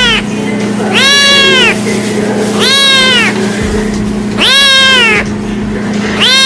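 Kitten meowing over and over: four drawn-out, high-pitched meows, each rising and then falling in pitch, about one every second and a half, with another starting near the end. A steady low hum runs underneath.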